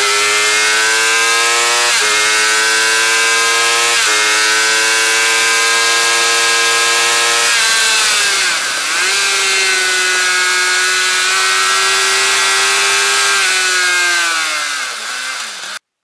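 Suzuki GSX-R750 K8's inline-four engine revving hard, its pitch climbing and then dropping sharply at two upshifts about two and four seconds in, with a steady rush of wind over it. About halfway through the revs fall and recover, run fairly steady, then drop away as the throttle closes near the end, and the sound cuts off suddenly.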